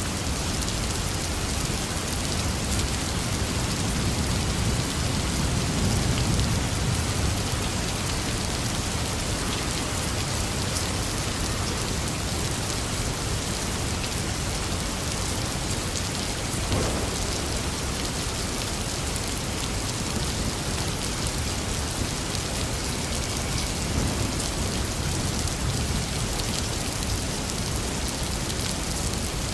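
Steady heavy rain falling on surfaces, an even hiss, with a low rumble swelling up a few seconds in and fading again.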